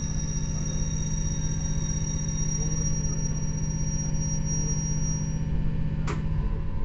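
Running sound inside a JR 115 series electric motor car: a steady low rumble of wheels, gears and MT54 traction motors, with a thin high-pitched squeal that fades out about five and a half seconds in. A sharp click comes about six seconds in, and the low motor tone drops away just after it.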